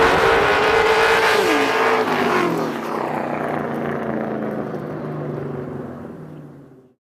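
A drift car's engine is held at high revs, then the revs drop about a second and a half in. It grows steadily fainter as it moves away, then cuts off abruptly near the end.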